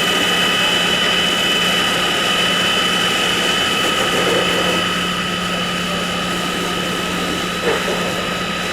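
A steady machine drone with a high whine over a constant hiss, and one short knock near the end.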